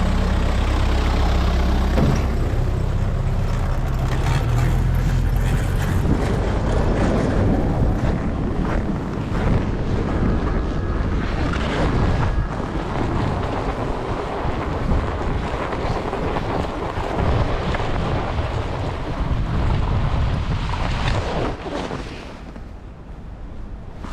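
A snow-clearing machine's heavy engine runs steadily for about the first six seconds, then gives way to wind buffeting the microphone while riding.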